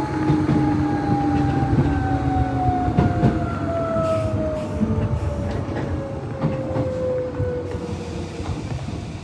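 Nishitetsu 600 series electric train slowing down: the whine of its traction motors and gears falls steadily in pitch and gets gradually quieter, with wheels clicking over the rail joints, heard from inside the train.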